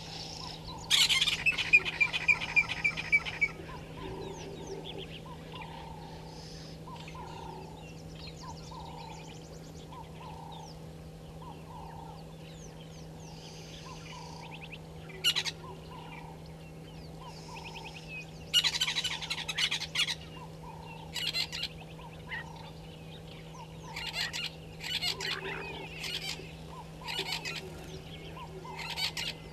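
Wild birds calling in African bush: one bird repeats a low falling note a little more than once a second. Over it, other birds break in with loud, shrill, chattering calls, first about a second in and again in bursts in the second half. A steady low hum runs underneath.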